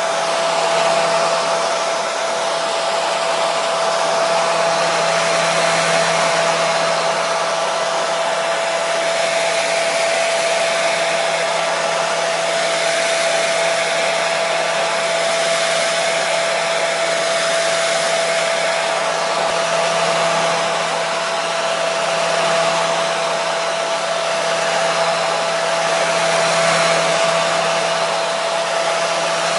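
Hair dryer running continuously: a steady rush of blown air with a constant motor whine, used as white noise to soothe a baby to sleep.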